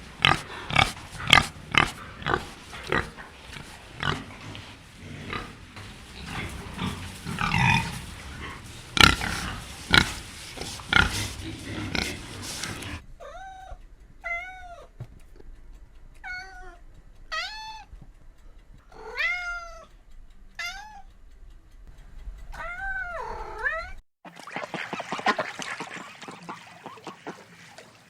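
Animal sounds in three parts. First comes a long stretch of rapid, loud grunting with clicks, then a string of short pitched calls, each rising and falling, and near the end a noisy rustling stretch.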